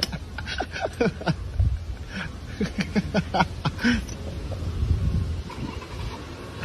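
An animal's short calls, many of them falling in pitch, over a low rumble with scattered knocks.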